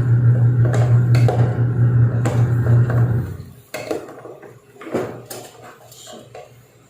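Cooking-pot clatter: a metal utensil clinking and knocking against a pot while stirring. A loud steady low hum runs under it and stops suddenly about three seconds in; after that the knocks stand alone, fainter.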